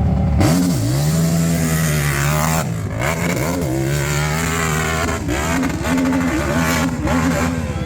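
KTM RC8 V-twin engine in a Yamaha YFZ450 quad at full throttle up a hillclimb, revving hard. Its pitch dips and climbs again several times through the run.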